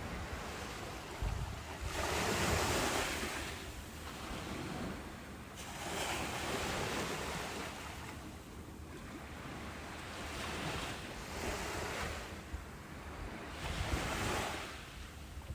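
Ocean surf: waves breaking and washing in, one after another, in swells a few seconds apart. The biggest swell comes about two seconds in, with others near the middle and near the end.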